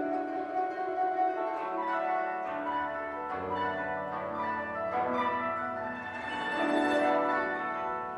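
Koto duet: plucked koto strings ringing in overlapping notes, with deeper notes sounding underneath through the middle.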